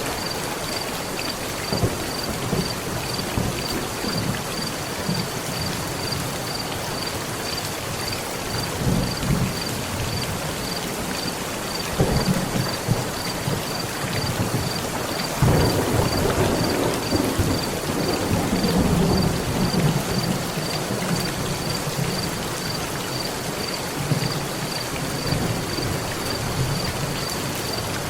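Heavy rain falling steadily on a metal roof, with thunder rumbling low several times; the longest roll swells about halfway through and dies away some five seconds later.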